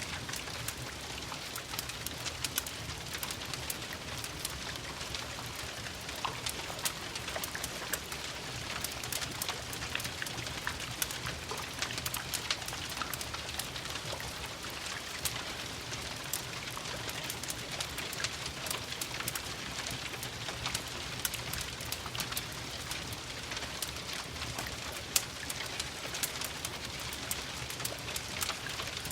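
Steady rain with a dense scatter of small ticks of drops, blended with the crackle of a wood fire in a fireplace, over a low steady rumble.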